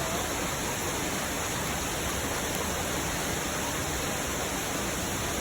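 Waterfall and fast-flowing creek rushing in a steady, unbroken roar of water, running high after heavy rain.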